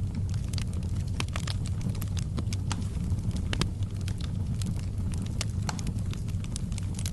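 Wood fire burning in a fireplace, crackling with frequent, irregular sharp pops over a steady low rumble of the flames.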